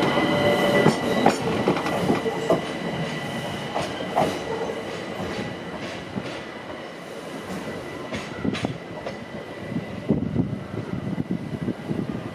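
A train running on the track, its wheels clicking over rail joints with a thin steady wheel squeal. The sound eases off around the middle, and more clicks come near the end.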